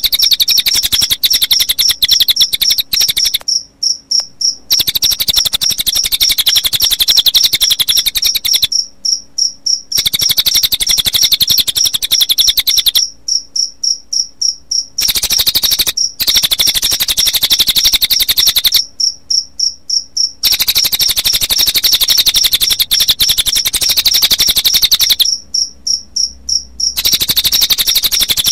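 Recorded cililin bird song mixed with cricket chirping: a fast, high, pulsing trill that goes in stretches of a few seconds, broken by pauses of about a second.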